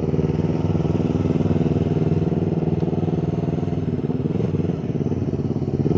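2018 Yamaha R3's parallel-twin engine running steadily at a constant low speed, with no revving.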